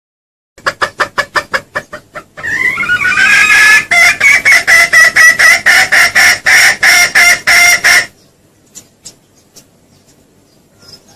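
Junglefowl lure call: a rapid run of clucks starting just after the beginning builds into a loud, pitched, fast-pulsing cackle that stops abruptly about eight seconds in, leaving only faint clicks.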